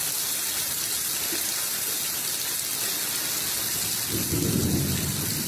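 Heavy rain pouring steadily onto standing floodwater, with a louder, lower rush about four seconds in.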